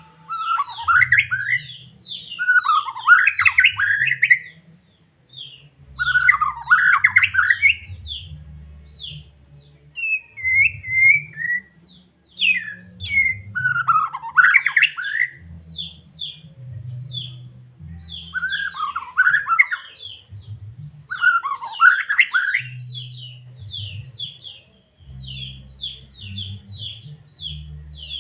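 White-rumped shama (murai batu) singing a varied song of loud whistled phrases with short pauses between them. Near the end it switches to quick repeated high notes. A low, irregular rumble runs underneath.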